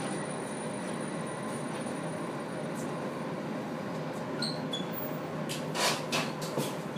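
Running noise inside a 701-series electric train as it slows into a station, with a few short brake squeaks and brief hisses and clicks near the end as it comes to a stop.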